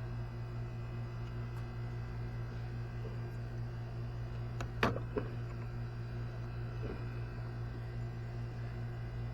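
Steady low hum throughout, with two or three sharp clicks of hand tools on metal close together about halfway through.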